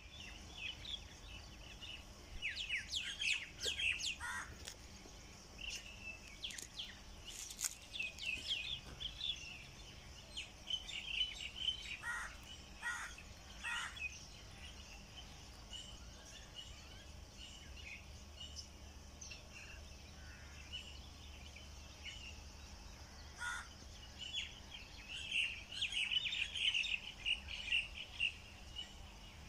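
Small birds chirping and twittering in scattered bursts, with three lower calls about a second apart midway through, over a steady high hiss.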